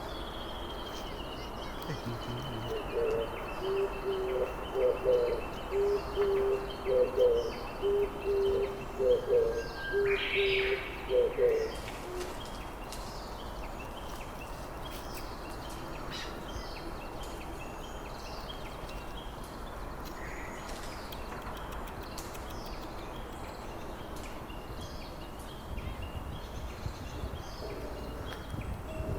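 A bird giving a series of low hooting notes, about one a second for some nine seconds, then stopping. Under it run a thin, steady high tone and faint chirps of other birds.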